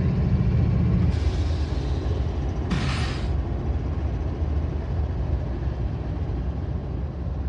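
Passing GE Evolution-series freight locomotives, their V12 diesel engines giving a steady drone that fades out about a second in. Then come two short hisses, the second and louder one about three seconds in, over the steady low rumble of freight cars rolling over the rails.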